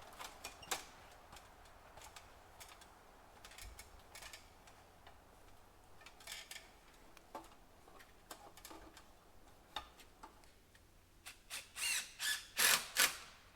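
Scattered light clicks and small scrapes of hand work at close range, with a run of louder, sharp scraping strokes near the end.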